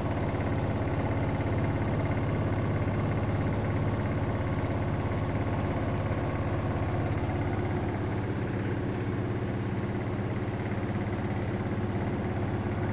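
Siemens front-loading washing machine in its final spin at 1400 RPM, the drum running with a steady, even hum.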